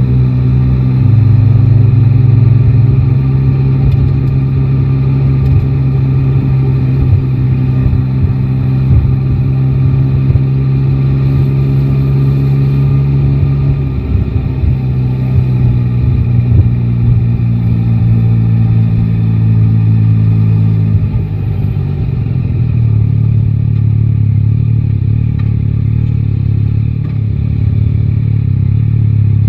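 Yamaha Tracer 9 GT motorcycle's inline-three engine running at a steady pace through city traffic, its pitch stepping down about halfway through and again about two-thirds in as the rider eases off.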